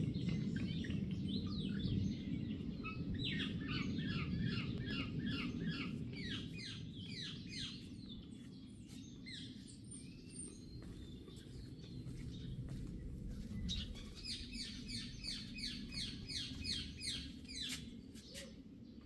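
A songbird singing two long runs of quick, repeated downward-slurred notes, about four a second, one a few seconds in and another near the end. Under it runs a low rumbling background noise, loudest at the start and fading.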